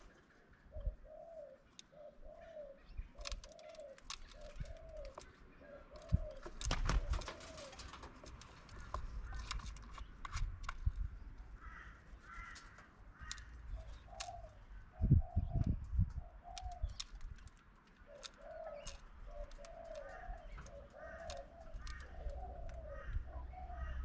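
Dove cooing in runs of short, repeated low notes, with occasional higher chirps from other birds. Sharp clicks and taps recur throughout, and low thumps come about seven and fifteen seconds in.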